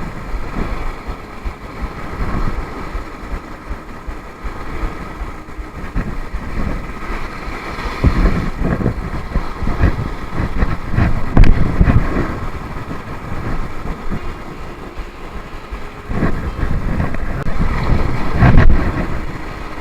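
Strong wind buffeting the microphone over heavy surf, rising in loud gusty surges twice in the middle and near the end.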